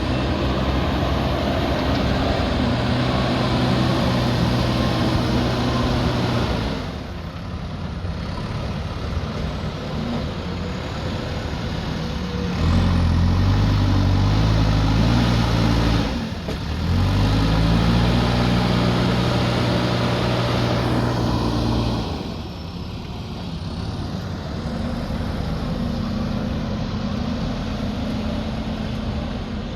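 Diesel engine of a heavy earthmoving machine working, its note shifting in steps as the load changes. It is loudest for a stretch in the middle, with a short dip partway through.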